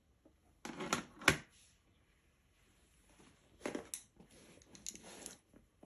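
Handling noises from painting supplies being moved on a table: three short bursts of rustling and scraping, with a sharp click about a second in.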